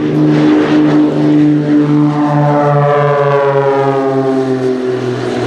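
Extra 300 aerobatic propeller planes at full power on take-off, the engine and propeller note falling slowly in pitch as they pass.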